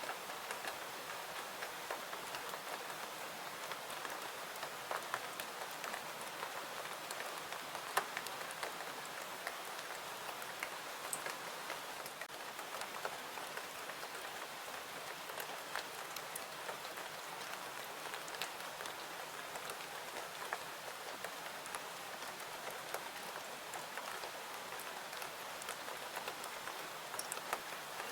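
Steady rain falling, with scattered sharp ticks and pops throughout, one stronger about eight seconds in.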